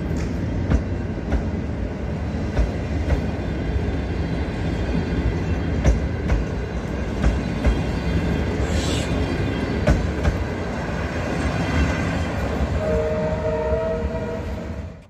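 Passenger coaches of a departing train rolling past: a steady rumble with irregular clicks and clanks of wheels over the rail joints, and a brief high squeal about nine seconds in. Near the end a two-note train horn sounds for about a second.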